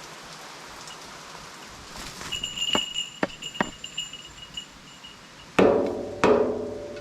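A few sharp clicks over a high thin tone, then two loud knocks about half a second apart, each leaving a short ringing decay.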